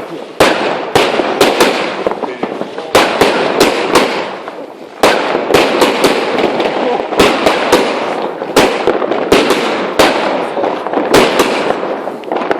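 New Year's fireworks going off: many sharp bangs in irregular rapid succession, at times several a second, over a continuous crackling noise, with a brief lull about four seconds in.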